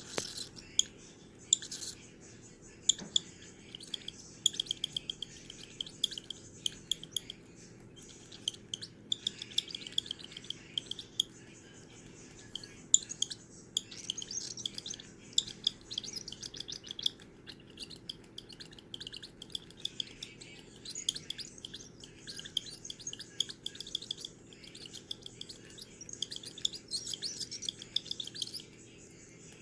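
Baby cockatiel chick chirping in rapid runs of short, high-pitched calls, with brief pauses between the runs, typical of a chick begging to be fed.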